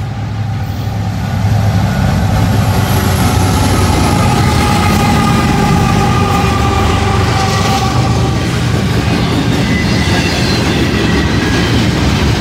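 Norfolk Southern intermodal freight train passing close by: the diesel locomotives get louder as they reach the crossing about a second and a half in, then the well cars of containers roll past with a steady clatter of wheels on rail.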